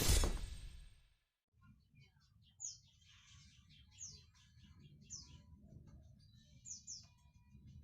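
A loud sudden hit at the very start that dies away within about a second, then a canary chirping: short, high notes that drop quickly in pitch, repeated irregularly over a low steady rumble.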